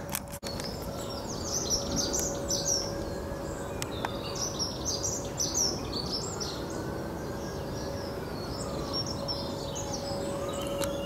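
Songbirds chirping and singing in repeated bursts of quick high notes. Underneath, a faint tone slowly rises and falls, and a steady hum runs throughout.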